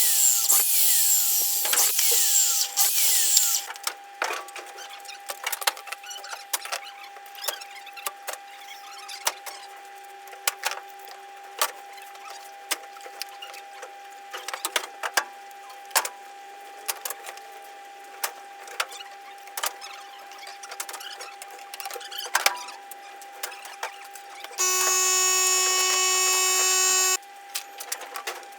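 A power drill runs for about three and a half seconds and stops. Then comes a long stretch of scattered clicks and taps of hand work on wood, and near the end the drill whirs again at a steady pitch for about two and a half seconds.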